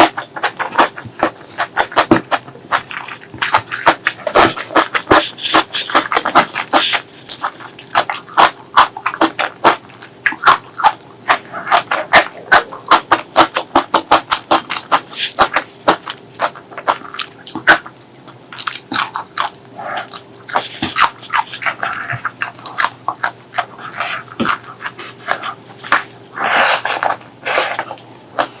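Close-miked eating: rapid wet chewing and lip-smacking clicks, several a second, with a couple of louder, hissier stretches of slurping or crunching. A faint steady hum runs underneath.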